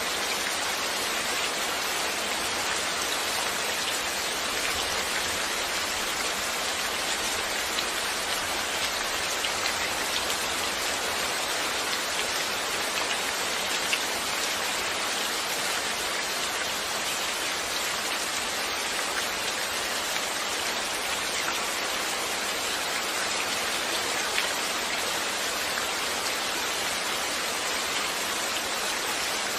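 Steady rain falling, an even hiss with fine scattered drop ticks and a couple of slightly louder drips.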